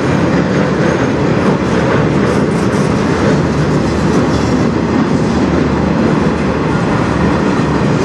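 Empty flatcars of a CN freight train rolling past: a loud, steady rolling noise of steel wheels on rail.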